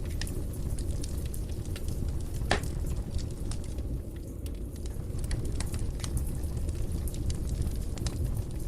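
Wood fire in a fireplace crackling, with a steady low rumble of flame and scattered sharp pops, one louder pop about two and a half seconds in.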